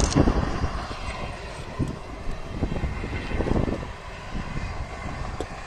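Low rumble of a passing train led by a Taiwan Railway E400-series electric locomotive hauling unpowered passenger cars, heard across open fields. It swells and fades, with a louder surge about three and a half seconds in.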